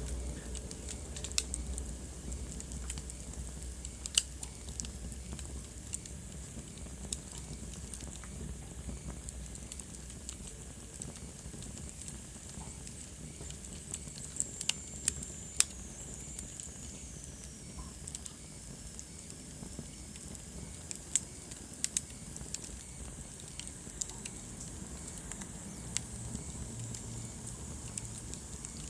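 Wood fire crackling: irregular sharp pops and snaps over a steady hiss of burning. Partway through, a faint high whistle glides downward for a few seconds.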